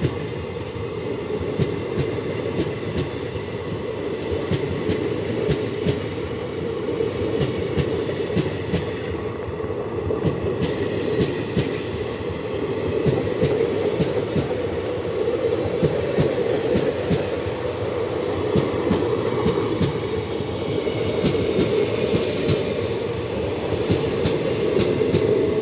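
Passenger train running on the rails: a steady rumble of wheels with a dense run of sharp rail clicks and rattles, growing a little louder over the second half.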